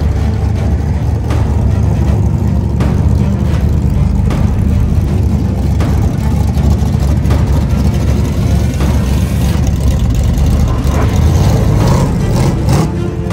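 A loud drag-race car engine running, a deep steady rumble with a few sharp pops.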